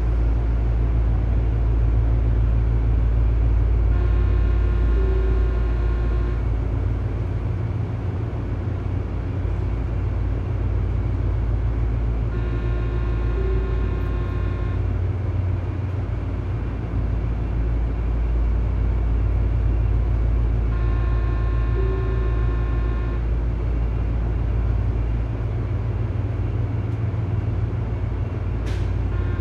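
Tobu 9000 series electric train car standing with its equipment running: a steady low rumble and hum, with a cluster of high-pitched steady tones that sounds for about two and a half seconds roughly every eight seconds.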